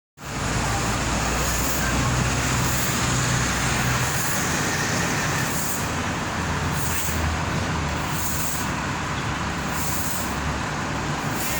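Steady wind blowing outdoors, with a hiss across the range and a low rumble underneath.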